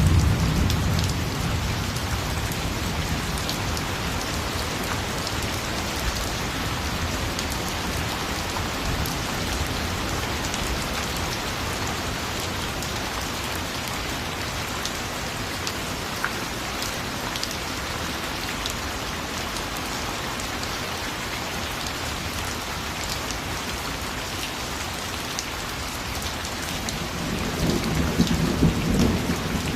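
Steady rain falling, with scattered drop ticks. Low thunder rumbles as it fades in the first second or two and rolls again near the end.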